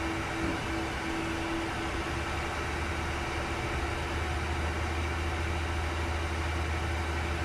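Steady cockpit noise of a Learjet 60XR in flight: an even rush of air and turbofan engine hum, with a low hum that grows a little stronger about two seconds in and one steady tone above it.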